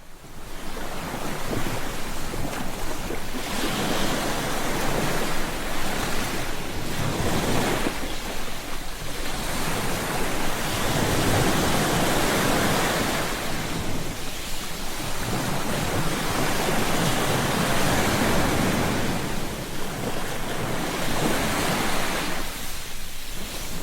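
Ocean surf breaking on a beach: a steady rush of water that swells and eases every five or six seconds, coming in out of silence at the very start.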